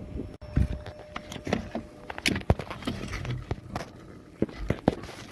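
Scattered knocks and clicks of handling and movement, with a faint thin steady whine that stops a little over two seconds in.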